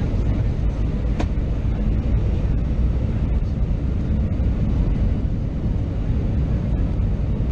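Steady rumble of an Airbus A320's engines and airflow as heard inside the passenger cabin.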